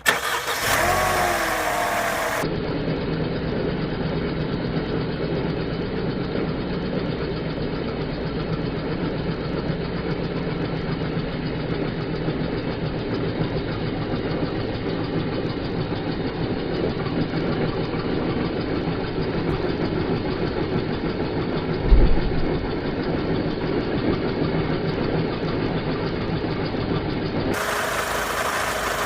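Mercedes-Benz SLK230's supercharged 2.3-litre four-cylinder engine cranked by the starter with a wavering whine for about two seconds, then catching and settling into a steady idle. A brief low thump comes about 22 seconds in.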